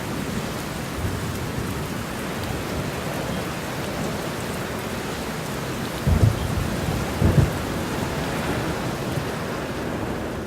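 Thunderstorm: steady rain falling, with two short low booms of thunder about six and seven seconds in.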